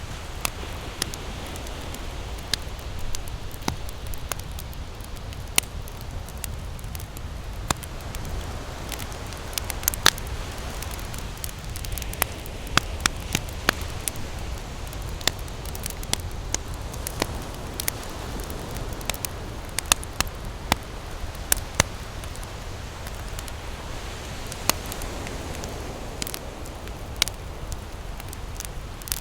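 Wood campfire crackling, with sharp pops coming irregularly several times a second, over a steady low rumble of ocean surf.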